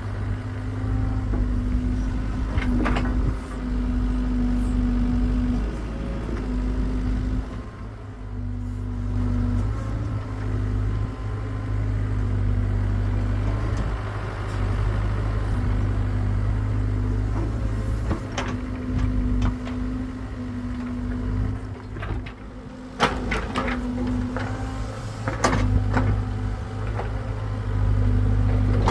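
Hitachi excavator's engine running steadily under work, with a higher hum that keeps coming and going and a few sharp knocks, one early and several close together near the end.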